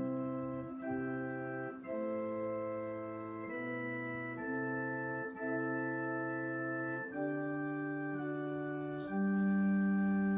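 Electronic organ playing a slow piece in held chords that do not fade, over a bass line that moves to a new note about every second. A louder, fuller chord comes in about nine seconds in.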